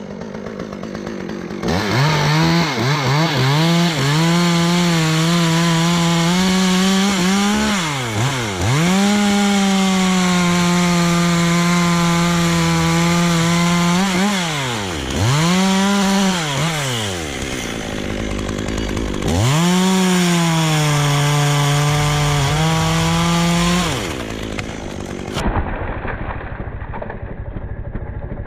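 Two-stroke chainsaw revved to full throttle about two seconds in and held at a steady high pitch while cutting into dead elm wood. The throttle is let off and opened again three times before the saw drops back near the end.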